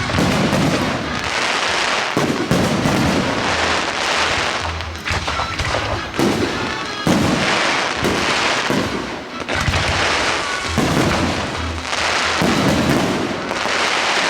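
Professional fireworks display: firework shells bursting one after another in a dense barrage, each burst a boom followed by crackling hiss.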